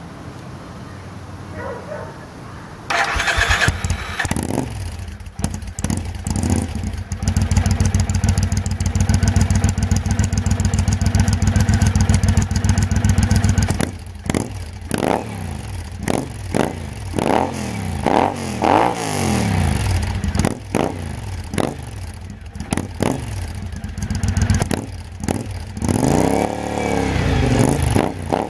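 A 2012 Triumph Speedmaster's 865cc parallel-twin engine with a 270-degree firing interval, running through open British Customs Bomber exhaust pipes. It is started about three seconds in and settles into a steady idle. From about halfway it is revved in a series of short throttle blips that rise and fall, with another burst of revs near the end.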